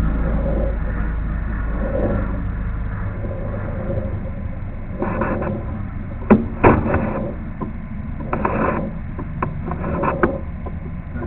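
Low engine-like rumble that fades after about three seconds, then scattered knocks and short scraping noises.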